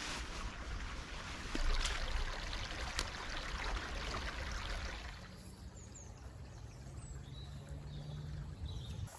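Woodland stream running, a steady rush of water. About five seconds in it drops away to a quieter backdrop with a steady low hum and a few faint high chirps.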